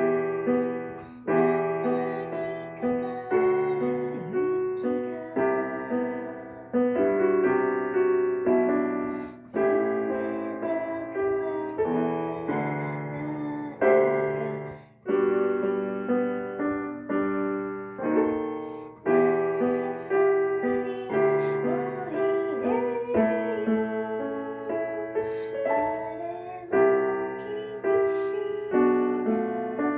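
Piano music: slow chords struck about every one to two seconds, each ringing and fading before the next, starting abruptly out of near silence.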